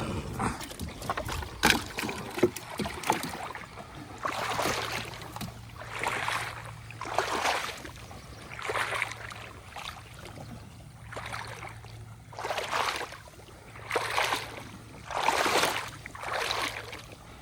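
Water sloshing in a steady rhythm, one swish about every second and a half, as a person moves through shallow pond water.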